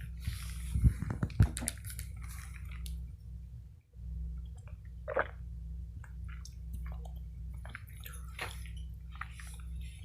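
Scattered clicks, scrapes and rustles from beehive frames being handled and lifted out of the box, over a steady low hum.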